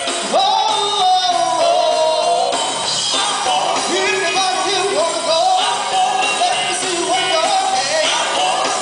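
Live gospel music: a vocal group singing over a full band, the voices sliding and bending in pitch.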